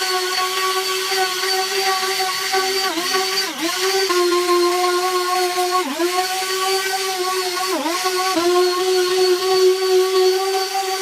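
Small electric motor running at high speed with a steady whine, its pitch sagging briefly about five times as it takes load.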